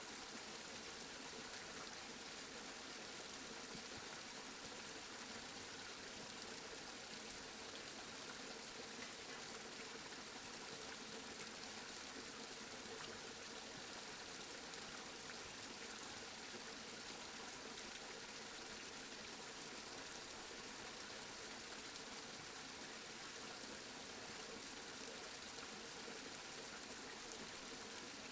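Steady rainfall: an even, unbroken hiss with no single drops or thunder standing out.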